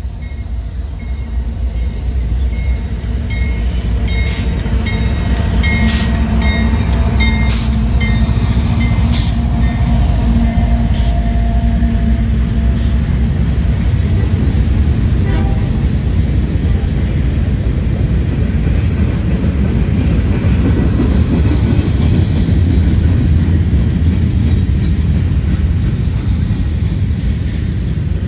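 A train rolling past: a steady rumble that builds over the first few seconds, with sharp clacks of wheels over the rail joints between about four and eleven seconds in. A faint repeating high tone sounds through the first several seconds.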